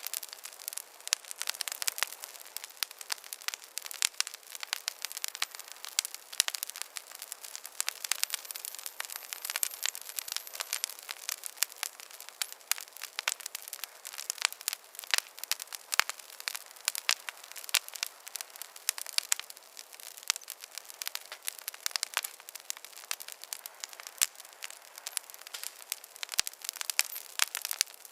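Campfire burning with dense, irregular crackling and snapping over a soft hiss.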